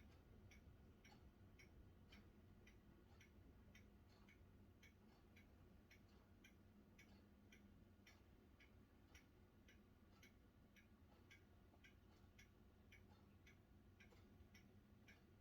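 Near silence with faint, fairly regular ticking, about two to three ticks a second.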